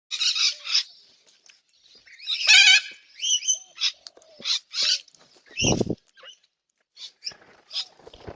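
Backyard birds at a bird bath calling: a run of short, harsh, screechy calls, the loudest about two and a half seconds in. A single low thump comes about two-thirds of the way through.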